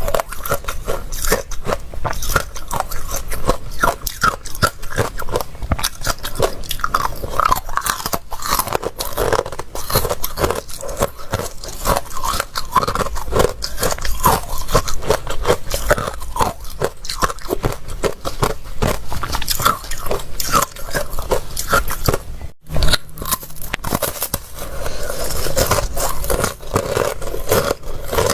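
Close-miked chewing and biting of crunchy ice: a dense, irregular run of loud crunches, with a brief break about two-thirds of the way through.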